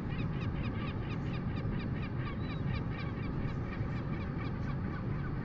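Steady low wind rumble on the microphone, with a bird giving a rapid series of short high chirps, about five a second, that fade after about four seconds.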